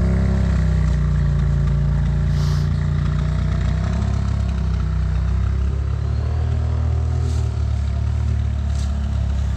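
Off-road vehicle engine running steadily under way, its pitch shifting slightly about four seconds in.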